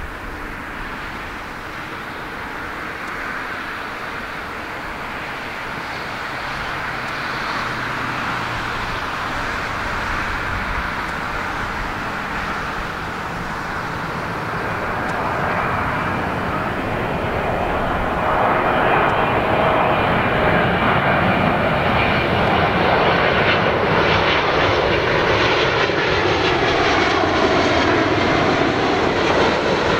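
Jet airliner on final approach, the rush of its engines growing steadily louder as it comes in low, with sweeping tones in the noise over the last ten seconds.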